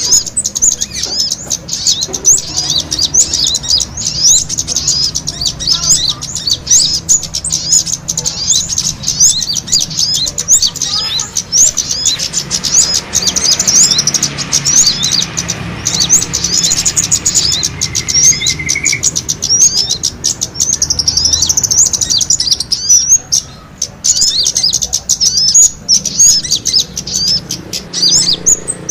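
Bird-lure recording of many small birds chirping fast and high, an unbroken tangle of overlapping calls and short trills, the agitated calling of small birds fighting, used to draw wild birds in.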